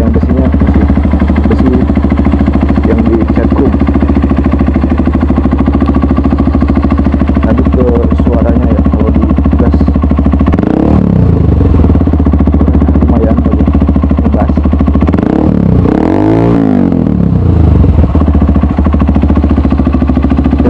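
Honda CRF 150L's single-cylinder four-stroke engine idling through a Norifumi RV1 N4 aftermarket exhaust, blipped twice: a short rev about halfway through and a bigger rev a few seconds later, each rising and then falling back to idle.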